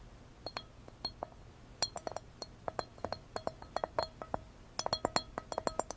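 A rapid, irregular run of light clicks and clinks, each with a short ring, growing denser toward the end.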